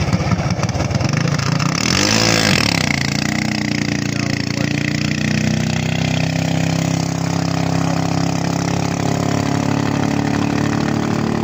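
Racing boat engine under test, running with fast, distinct firing pulses, revved briefly up and back down about two seconds in, then running steadily.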